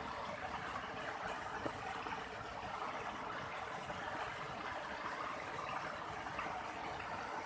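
A steady, even hiss of water noise, with no changes in level.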